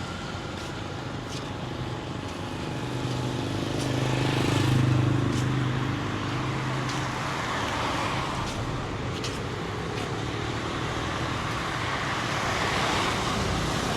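Road traffic going by, with one vehicle engine growing louder and passing between about four and seven seconds in.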